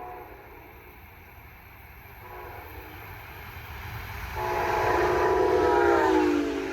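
Brightline passenger train approaching with its horn sounding: a short blast, then a long loud blast that drops in pitch near the end as the train passes, over the rising rumble of the train.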